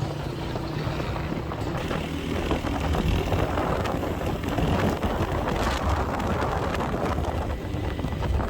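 Motorcycle running along the road, a steady engine rumble mixed with wind rushing over the microphone.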